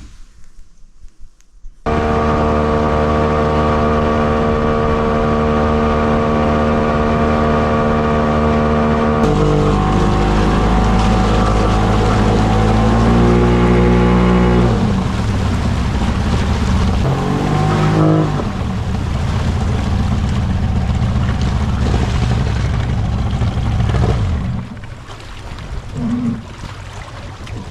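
Outboard jet boat motor running hard at a steady pitch, cutting in suddenly about two seconds in. Partway through, the pitch shifts and wavers up and down as the revs change, and it drops back to a quieter level a few seconds before the end.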